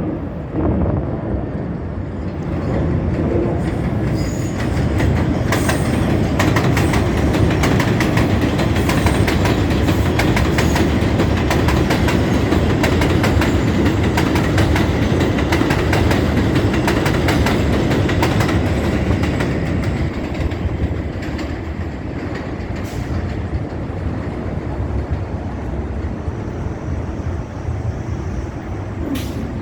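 R142 subway train running through a station without stopping, its wheels clattering with many sharp clicks over a steady rumble. It gets louder over the first few seconds, is loudest in the middle, and eases off in the last third as the train moves away.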